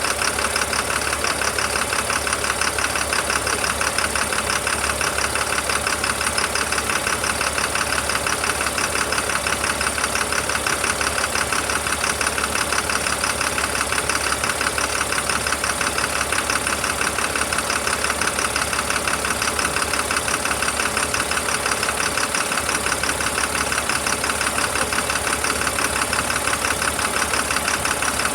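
Caterpillar 3116 inline-six diesel engine idling steadily with an even, rapid clatter of firing pulses.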